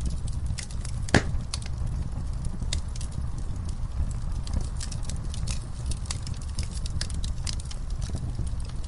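Wood fire burning: a steady low rumble of flames under irregular crackles and snaps of burning wood, with one loud pop about a second in.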